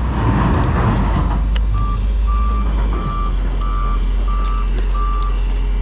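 Reversing alarm of a heavy vehicle beeping six times, about one and a half beeps a second, starting about two seconds in, over a steady low engine rumble.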